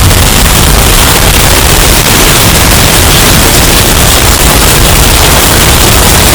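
Hurricane wind sound effect, bass-boosted until it distorts: a constant, very loud harsh noise at every pitch, heaviest in the deep bass, with no breaks.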